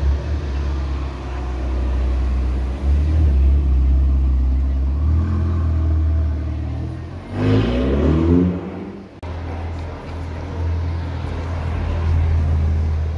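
Ferrari Portofino's twin-turbo V8 running at low speed, then a short burst of revs about seven seconds in that climbs in pitch for a second and a half before cutting off. After that a steady low engine rumble goes on.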